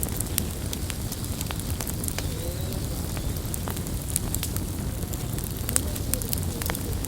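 Campfire burning: a steady low noise of flames with frequent sharp crackles and pops from the burning wood.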